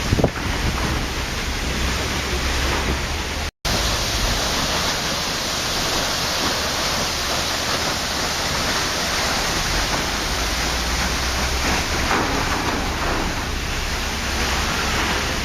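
Waterfall: a steady, even rush of falling water, cutting out completely for an instant about three and a half seconds in.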